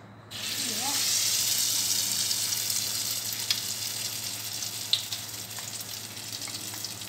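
Hot oil in a wok sizzling as food is dropped in. The sizzle starts suddenly, is loudest for the first couple of seconds, then slowly dies down, with a few sharp pops.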